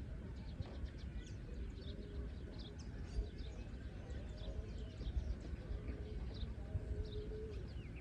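Birds chirping repeatedly in short, quick, falling chirps, over a steady low rumble.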